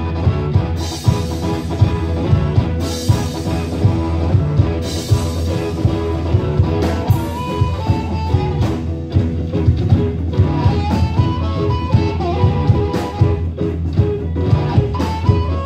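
Live band playing a blues-rock song: a guitar lead with bent notes over bass and a drum kit keeping a steady beat.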